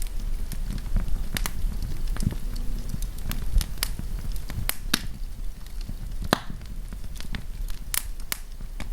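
Wood campfire crackling and popping: irregular sharp snaps over a steady low rumble, with one louder pop about six seconds in.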